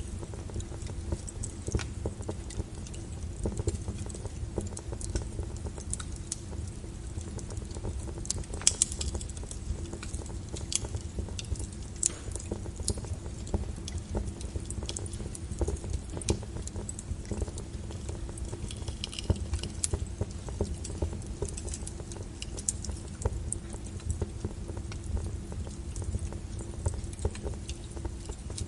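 Wood logs burning in a fireplace, crackling and popping irregularly over a steady low rumble of the fire, with a sharper pop about nine seconds in.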